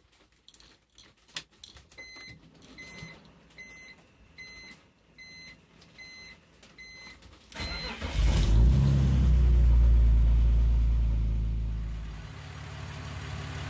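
A BMW E46's dashboard chimes about seven times, evenly spaced, then the inline-six engine cranks and starts about eight seconds in. It flares up in revs after starting, then drops back to a steady idle near the end.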